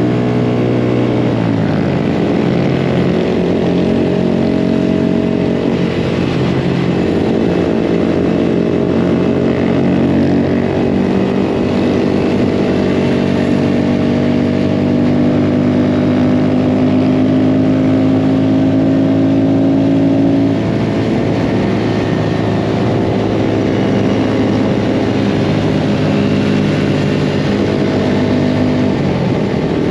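Mini bike engine running under way, its pitch falling about a second in, then holding fairly steady with small rises and dips as the throttle changes, and easing slightly about two-thirds through.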